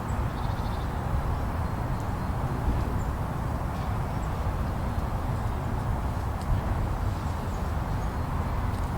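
Blizzard wind: a steady, even rush of noise, heaviest in the low end, with a few faint tiny clicks.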